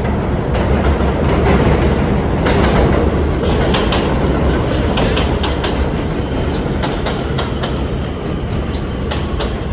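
New York City subway A train running through the station: a steady heavy rumble with a rapid, irregular clatter of wheel clicks over the rail joints, loudest in the middle.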